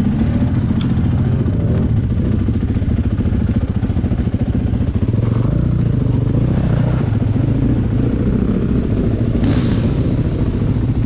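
Dirt bike engine running close by, a steady rapid firing throb, with a brief sharp click about a second in.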